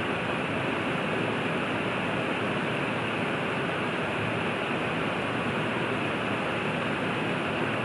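River water rushing, a steady even hiss with nothing else standing out.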